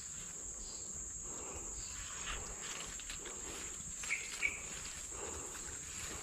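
Insects droning with a steady high-pitched whine, and two short higher chirps about four seconds in.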